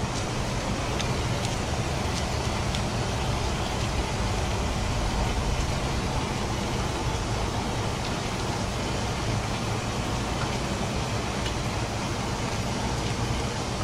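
Steady rushing and bubbling of a live-bait shrimp tank's circulating, aerated water and its pumps, with a low hum underneath and a few faint clicks.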